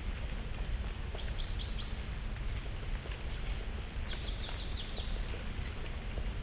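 Small songbirds giving two short series of high chirps, about four quick notes and then about half a dozen falling ones. Faint scattered ticks of falling leaves sound underneath, over a steady low rumble.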